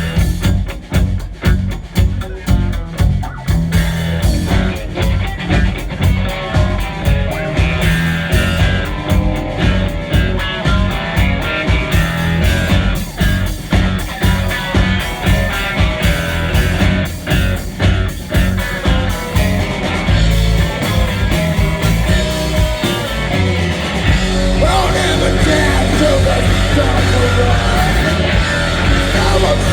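Live rock band playing an instrumental passage with electric guitar. A fast, even drum beat runs through most of it, giving way over the last several seconds to a louder, steadier wash of guitar.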